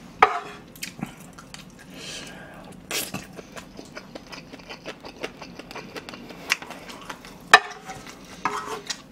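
Close-miked chewing of kimchi fried rice, with wet mouth clicks. Near the end a wooden spoon knocks and scrapes against a large coated frying pan as rice is scooped up.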